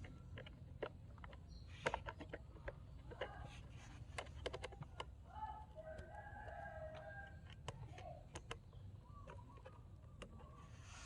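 Scattered light clicks and taps of small parts being handled, with a faint drawn-out fowl call about midway, such as a distant rooster crowing.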